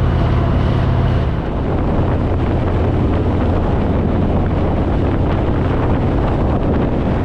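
Harley-Davidson Fat Boy V-twin engine running at highway speed under heavy wind noise on the microphone. About a second and a half in the loudness dips briefly and the engine note settles lower.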